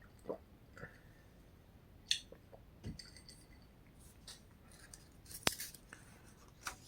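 Faint handling of a printed paper catalog, its pages being turned: scattered soft rustles and light taps, with a sharp click about five and a half seconds in.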